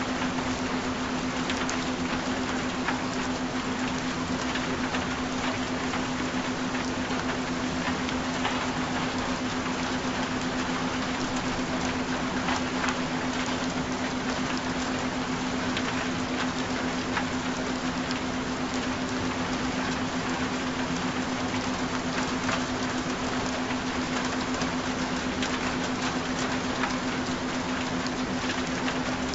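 Steady rain falling, with scattered faint drop ticks, over a constant low tone: a binaural-beat tone mixed under a rain recording.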